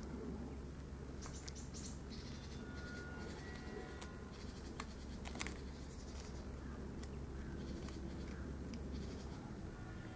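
A cat chewing and crunching on a bird it has caught: short irregular crackles and clicks, a sharper crunch a little past the middle, over a steady low hum.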